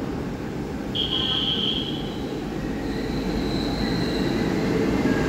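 E1000-series PP Tze-Chiang push-pull express approaching, its rumble growing steadily louder. A high thin wheel squeal sounds about a second in and again around three seconds in.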